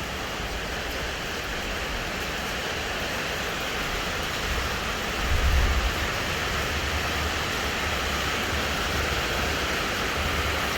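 Heavy rain pouring steadily in a storm, with wind buffeting the microphone, strongest about halfway through.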